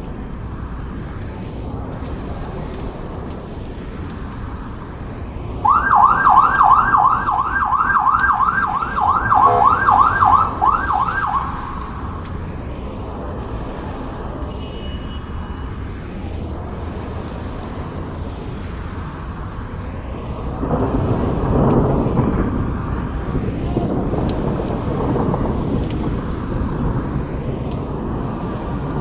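Thunderstorm ambience: steady rain and wind. About six seconds in, a siren sounds for some six seconds in quick rising sweeps, about two a second, and near the end a low rumble of thunder swells and rolls on.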